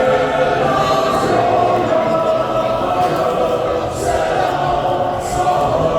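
A choir singing held notes with music behind it.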